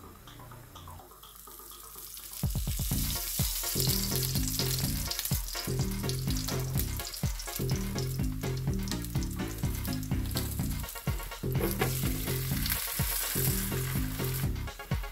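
Ghee sizzling under an oat paratha on a hot tawa. About two and a half seconds in, background music with a steady beat comes in and plays over the sizzle.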